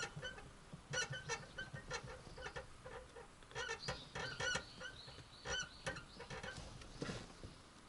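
Repeated short squeaks from a Toyota AE86's clutch linkage as the clutch pedal is pressed, a 'kyu-kyu' sound that the owner puts down to dry grease at the pivot of the clutch release fork.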